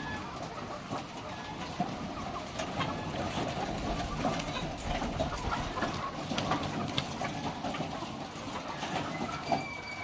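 A house full of laying hens clucking together in a steady chorus, with scattered light clicks and knocks among them.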